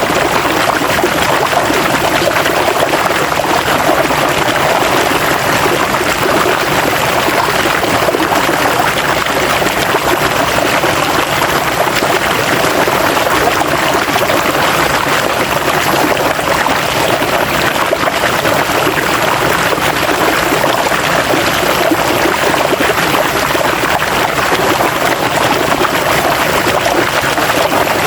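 River water flowing and burbling in a steady rush, with no breaks or changes.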